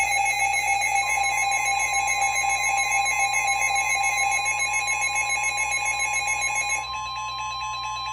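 Weather radio warning alert: a loud, steady electronic alarm tone, joined about a second in by a second steady tone. The first tone cuts off about seven seconds in, leaving the single steady tone running on. It is the alert that comes before a severe thunderstorm warning is read out.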